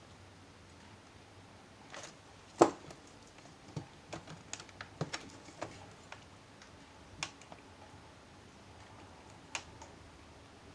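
Scattered light clicks and taps of a laptop's plastic case and small parts being handled and worked loose by hand, with one sharper knock about two and a half seconds in.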